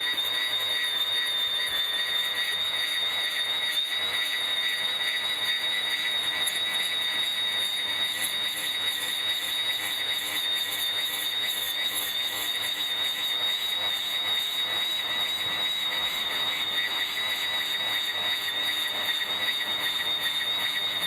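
Electric grass trimmer running with a steady, high-pitched whine.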